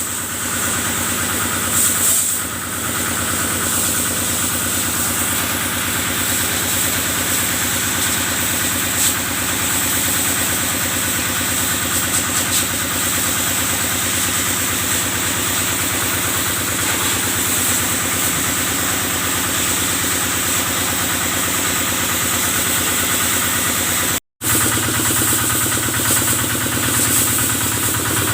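Kubota stationary diesel engine running steadily at a constant speed, driving the pump of a cattle-washing sprayer, with a hiss of water spray over it. The sound drops out for a moment near the end.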